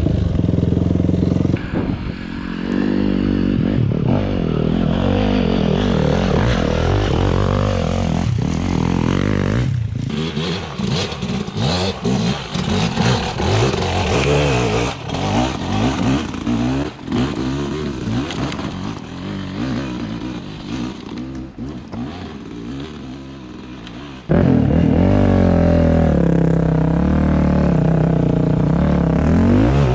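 Dirt bike engine running on a trail ride, its pitch rising and falling as the throttle opens and closes. Through the middle the engine drops quieter and uneven, with many short knocks and rattles, then comes back loud and steady all at once about two-thirds of the way through.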